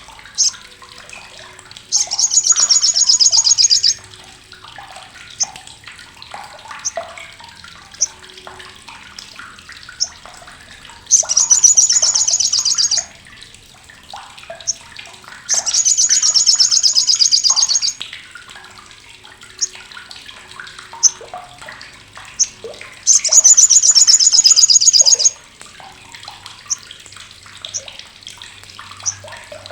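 Olive-backed sunbird (Sogok Ontong, Sriganti) giving its crecetan: four loud, harsh, sharp bursts of rapid chattering of about two seconds each, with single short high chips between them.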